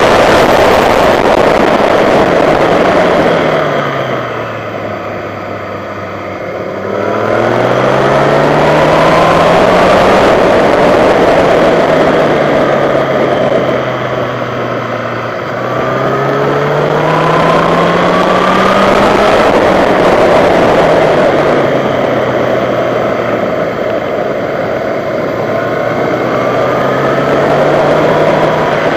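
Sport motorcycle engine heard through an on-board camera at track speed, under loud wind rush. The revs drop and the sound eases about four to seven seconds in, then climb again, fall back, and climb again around sixteen to nineteen seconds in, settling steadier near the end.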